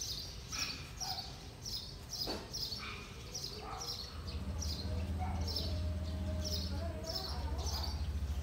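A small bird chirping over and over, short high calls about twice a second. About four seconds in, a low steady hum comes in beneath it, with a single sharp click a little earlier.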